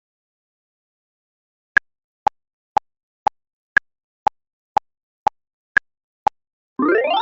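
Quiz countdown-timer sound effect: ten sharp clock-like ticks, two a second, every fourth tick higher-pitched. Near the end a rising sweep ends in a held tone.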